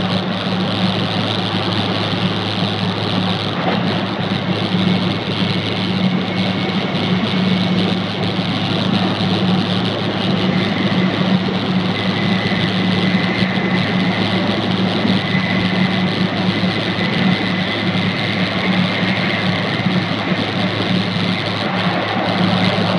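Steady running noise inside a Jōetsu Shinkansen carriage travelling at speed: a continuous rushing sound with a low hum, and a faint high whine that comes and goes in the middle stretch.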